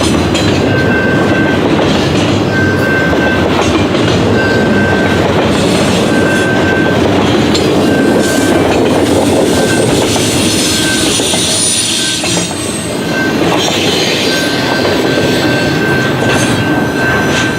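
A long intermodal freight train rolling past: a loud, steady rumble and clatter of wheels on rail, with a high tone that comes and goes about once a second and thin wheel squeals in the second half.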